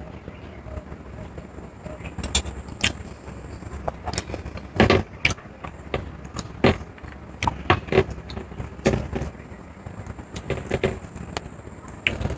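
Close-up eating sounds: chewing and mouth smacks, heard as short sharp wet clicks at irregular intervals over a steady low background.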